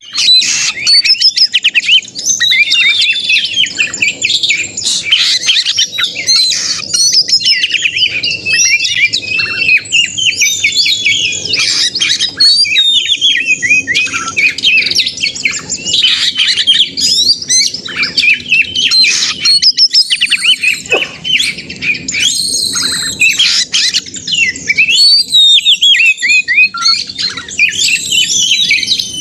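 Oriental magpie-robin singing loud and without pause: a rapid, ever-changing run of clear whistles, slurred glides and harsh chattering notes. This is the agitated fighting song ('narung') of a bird in full voice, the kind used to provoke other magpie-robins into singing.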